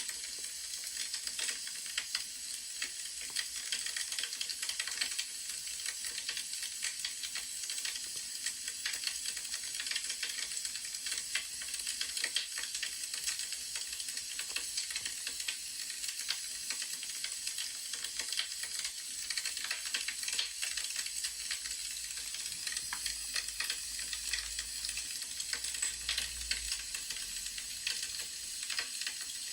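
Wood fire crackling: a steady hiss dotted with many small pops and crackles.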